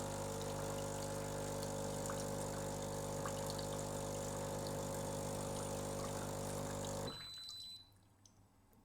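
Breville Barista espresso machine's vibratory pump running during its descaling cycle: a steady hum with water flowing through the machine. It cuts off abruptly about seven seconds in.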